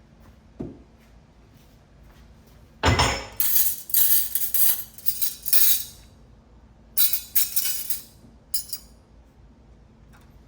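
Dishes and cutlery clinking and clattering as they are taken out of a dishwasher and put away: a light knock, then two runs of bright clattering a few seconds long, the first opening with a heavier clunk.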